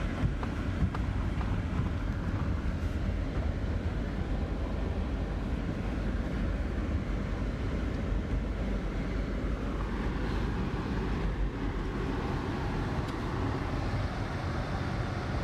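Car driving: a steady low road and engine rumble with some wind noise.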